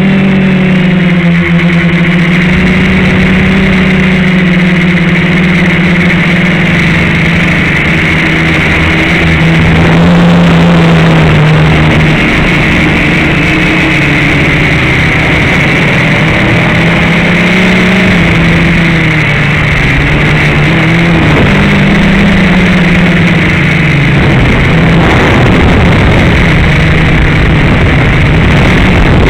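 FPV quadcopter's electric motors and propellers, heard through the onboard camera's microphone: a loud, steady buzzing whose pitch shifts up and down with the throttle, over a rushing noise.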